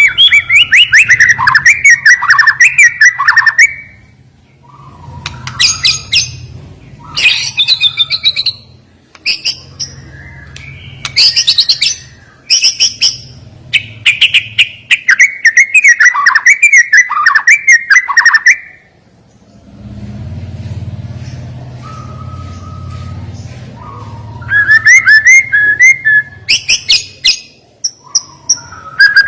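White-rumped shama (murai batu) singing: loud, sharp phrases of rapid whistles, trills and chattering notes, broken by short pauses, with a quieter lull about two-thirds of the way through.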